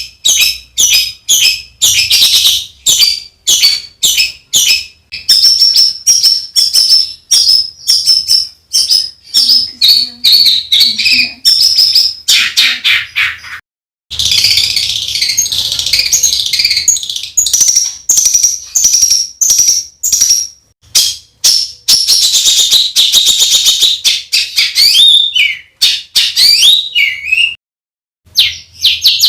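Songbird singing fast runs of harsh, rapidly repeated chirping notes: the rough 'tembakan' song used in masteran recordings to train competition songbirds. The song breaks off briefly about halfway through and again near the end.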